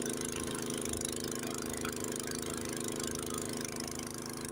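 Honda HS80 tracked snowblower's single-cylinder engine running steadily at an even pitch while the machine climbs a small hill through snow.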